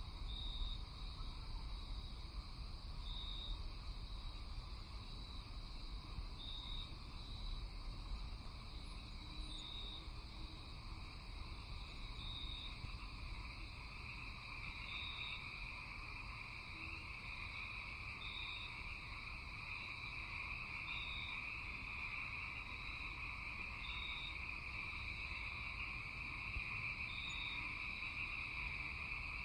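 Night chorus of insects and frogs: a steady shrill trill that grows louder about halfway through, a short high note repeating every two to three seconds, and a low rumble underneath.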